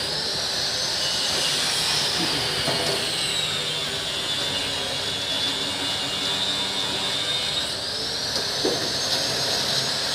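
Small bamboo-processing machine for cutting bird-cage spokes running with a steady hiss and a high whine; the whine rises in pitch about a second in, sinks back over the next few seconds, and rises again near the end.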